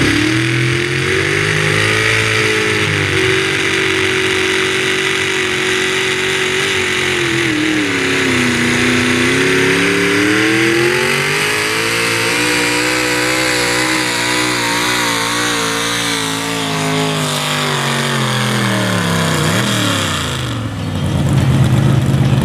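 Pickup truck engine at full throttle dragging a weight-transfer pulling sled: the revs hold high, sag about 8 seconds in, climb back up, then fall away near the end as the truck comes off the throttle.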